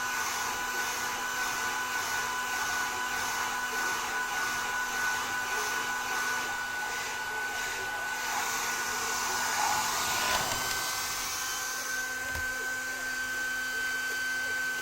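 Electric hair dryer blowing steadily, an airy rush with a motor whine; the hiss pulses about twice a second for the first eight seconds, and about ten seconds in the whine steps slightly higher.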